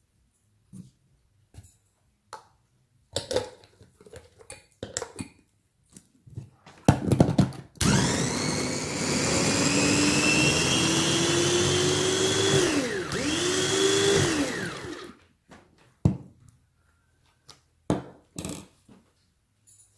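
Small electric food processor chopping vegetables. The motor runs about seven seconds with a whine that rises slowly, stops briefly and starts again near the end of the run. Clicks and knocks come before and after as the bowl and lid are handled.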